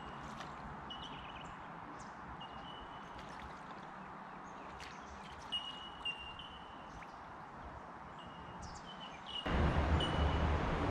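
Birds calling in short, high single notes repeated every second or so over a faint steady hiss, with two small knocks midway. Near the end a much louder steady rushing noise with a low rumble comes in.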